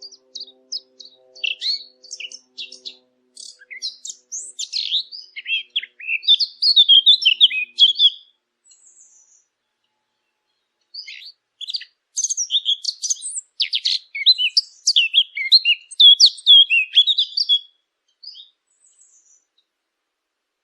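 Small songbirds twittering and chirping in quick high trills, in two long runs separated by a pause of about three seconds.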